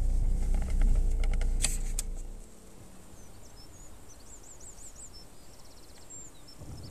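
Car engine running with a low rumble and two sharp clicks, fading out after about two seconds. Then a quiet open-air background where a small bird sings short series of high, quick chirps, twice, with a brief buzzy trill between them.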